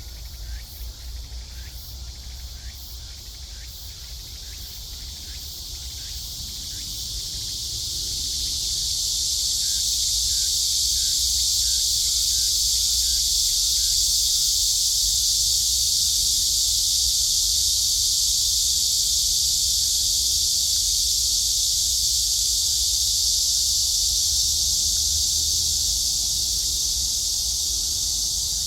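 Cicadas calling: at first a pulsing call of a few beats a second, then a loud, continuous high buzz swells in over a few seconds and holds steady, easing slightly near the end.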